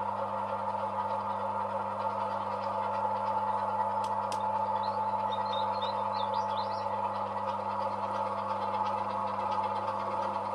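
OO gauge model locomotive running steadily, its small electric motor giving a constant whine over a low electrical hum. A few faint, short high chirps come about halfway through.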